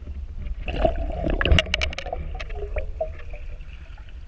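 Water splashing and gurgling around a kayak, with a quick run of clicks and knocks in the first half.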